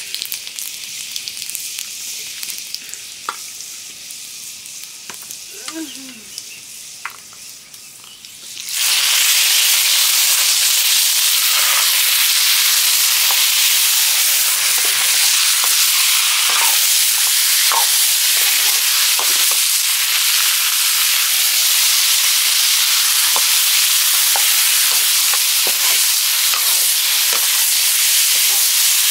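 Pork curry frying in hot oil in a pan. At first it is a fainter sizzle with scattered clicks; about nine seconds in, the sizzle suddenly becomes much louder and stays steady, with the short knocks of stirring running through it.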